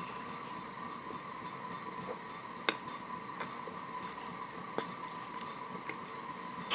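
Quiet mouth sounds of someone chewing a soft taco: a few scattered soft clicks and smacks.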